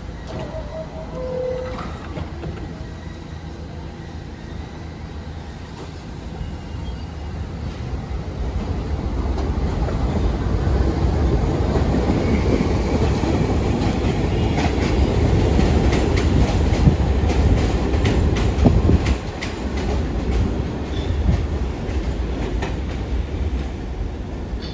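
A subway train running past on the tracks. Its low rumble builds from about seven seconds in, peaks in the middle and then eases. A run of sharp clacks from the wheels over rail joints comes in the second half.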